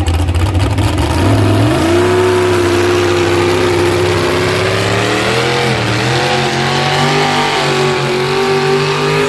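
A pulling vehicle's engine at full throttle during a sled pull. It revs up about two seconds in and holds at high revs, with a brief dip and recovery around the middle.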